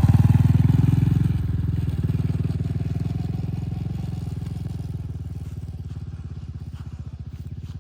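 A small engine running with a fast, even beat, growing steadily fainter.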